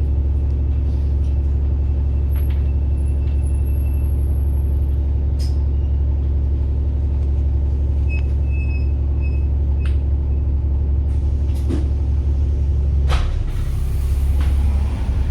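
Bus diesel engine running steadily with a deep hum. About 13 seconds in there is a sharp hiss of compressed air, and the engine note shifts afterwards.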